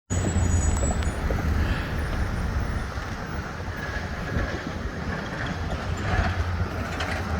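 Steady low rumble of a heavy vehicle's engine with road noise, no siren.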